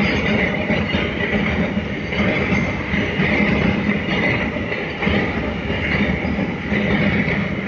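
Container freight train's wagons rolling past close by: a steady rumble and clatter of steel wheels on the rails, swelling and easing as each wagon goes by.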